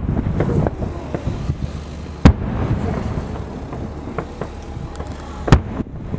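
Aerial fireworks bursting at a distance: two sharp bangs, about two seconds in and again near the end, with smaller pops and crackles between them over a steady low rumble.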